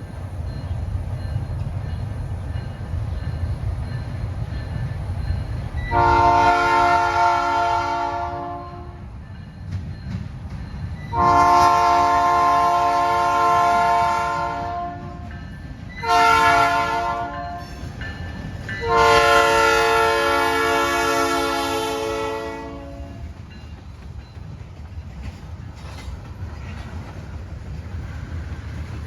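A train rumbling past while its locomotive air horn sounds four blasts, long, long, short, long: the standard signal for a road grade crossing.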